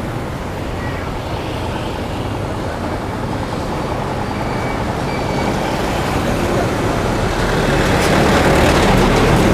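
Street traffic noise, a steady low rumble of passing vehicles that grows louder over the last few seconds.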